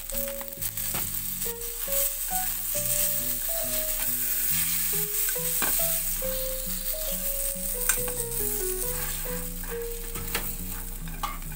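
Mochi frying in oil and butter in a frying pan, sizzling steadily after soy sauce is poured over it. A few sharp clicks come from wooden chopsticks against the pan as the mochi is turned.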